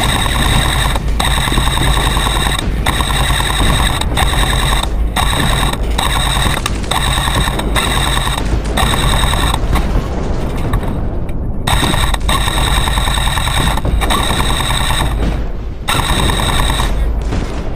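M249-type airsoft electric gun firing full-auto bursts: a loud buzzing motor-and-gearbox rattle, each burst about a second long, broken by short pauses, with a longer lull about eleven seconds in.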